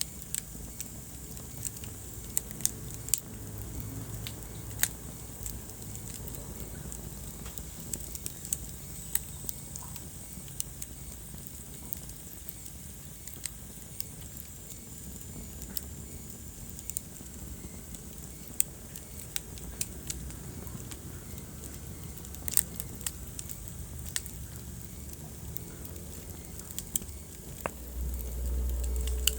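Wood fire in a fireplace crackling, with sharp pops scattered irregularly over a steady low rumble. A louder low rumble swells briefly near the end.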